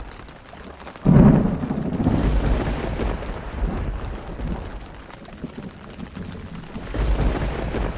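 Thunderstorm with steady rain: about a second in, a sudden loud thunderclap that rolls on for a couple of seconds, and another low rumble of thunder near the end.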